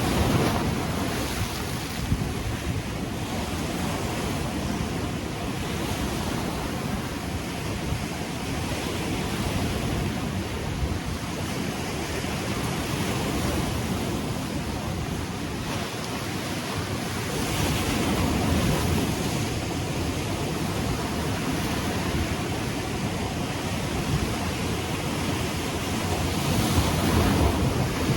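Ocean waves breaking and washing on the shore, with wind on the microphone. The surf swells louder about two-thirds of the way through and again near the end.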